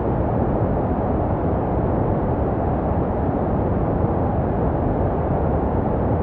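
Steady, unbroken baby-sleep white noise, deep and muffled with little high hiss, made to resemble the sound a baby hears in the womb.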